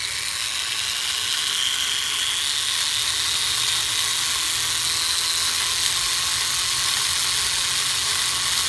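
Tiny electric motor and propeller of an Air Hogs E-Charger toy plane whirring steadily at a high pitch, rising slightly in the first couple of seconds, then holding.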